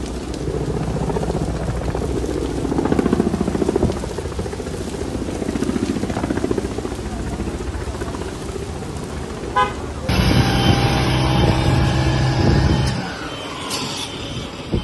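Motor vehicle sounds with a rumbling engine. About ten seconds in, a steady horn-like tone is held for about three seconds.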